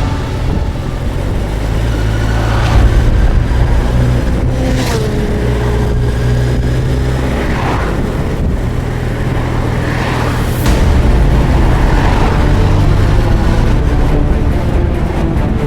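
Suzuki GSX1250FA motorcycle's inline-four engine running under way, a steady low hum whose pitch shifts in a few steps.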